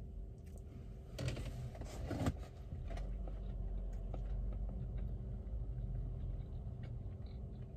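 A person chewing a mouthful of crispy chicken sandwich, with a few louder chewing sounds between about one and two and a half seconds in, over a low steady hum inside the car.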